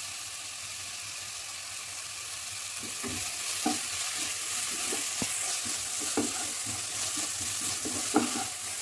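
Onions, ginger-garlic paste, mint and coriander leaves sizzling in hot ghee and oil in a pot, a steady hiss. From about three seconds in, a wooden spatula stirs through them with irregular scraping knocks against the pot.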